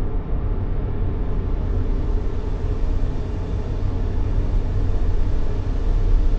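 Steady white-noise track for soothing a baby: an even hiss weighted heavily towards a deep, low rumble, with no changes or events.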